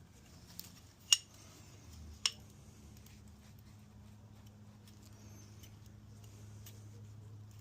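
Two sharp metallic clicks, about a second apart, as small engine parts are handled during piston ring installation, over a steady low hum.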